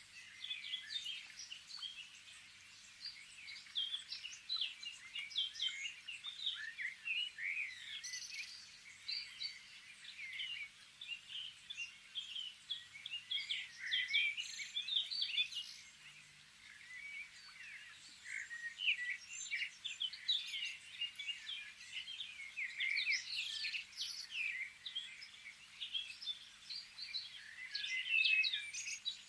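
Many small songbirds chirping and singing at once, a dense chorus of short high calls that thins briefly about two thirds of the way through.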